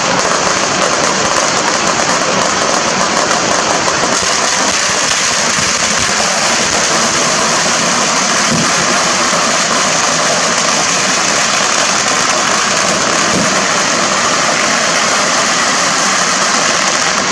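A long string of firecrackers going off in one continuous rapid crackle that stops suddenly at the end.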